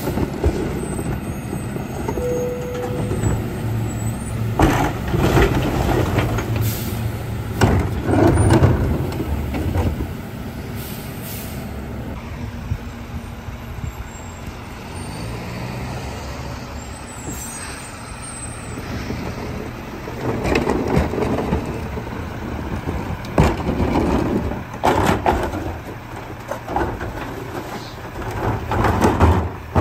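Garbage truck engine running steadily, with several short, loud noises over it in two clusters, one a few seconds in and another from about two-thirds of the way through.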